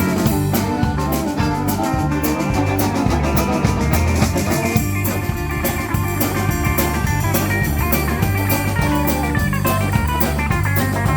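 Live country band playing an instrumental break: drum kit keeping a steady beat under bass and guitars, with no singing.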